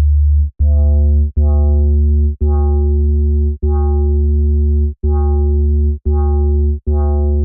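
A deep dub bass patch on Arturia's Pigments software synthesizer, played as about eight held notes in a row with tiny gaps between them. Phase modulation gives it metallic, bell-like overtones over a heavy low end, and the sound opens up after each note's initial attack as an envelope sweeps the phase modulation and a low-pass filter together.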